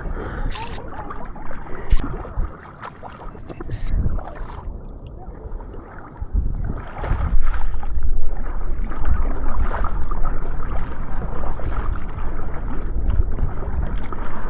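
Kayak paddles splashing and water sloshing around the boats, with a heavy low rumble on the microphone that grows louder about six seconds in.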